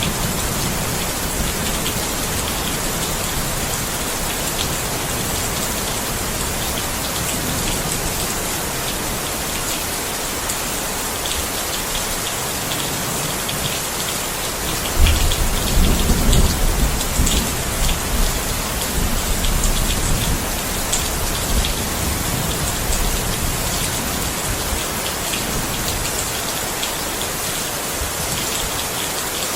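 Steady rain falling on a surface, with scattered sharp drip ticks. About halfway through, a low rumble of thunder rolls in for several seconds and fades.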